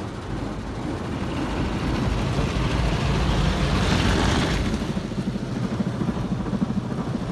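WashTec SoftCare 2 Pro gantry car wash working over the car, heard from inside the cabin: a steady low mechanical rumble under a rushing wash of noise that swells to its loudest about four seconds in, then gives way to a fast low flapping rhythm.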